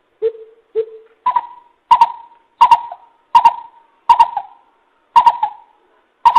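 Coucal (bìm bịp) calling: a series of nine deep hooting notes, roughly one every 0.6 to 1 s. The first two notes are lower and the rest step up higher. It is a recorded call used as a bird-trapping lure.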